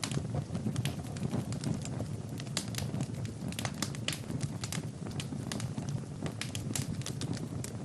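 Fire in a fireplace crackling, with many irregular sharp pops over a steady low rumble.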